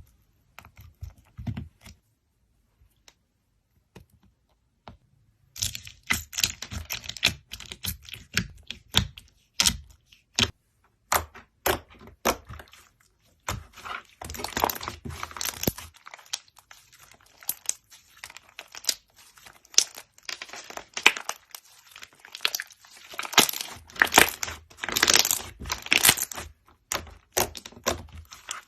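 Slime being squeezed and poked by hand, giving rapid crackling clicks and pops. Only a few scattered clicks come at first; after about five seconds they become dense and continuous.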